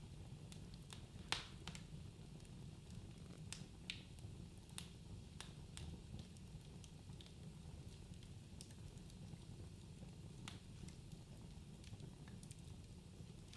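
Wood fire crackling in a fireplace: scattered sharp pops and snaps over a low steady rumble, with one louder pop about a second in.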